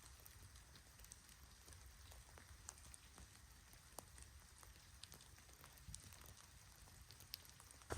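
Faint light rain: scattered single raindrops tapping over a soft steady hiss, with a low rumble underneath.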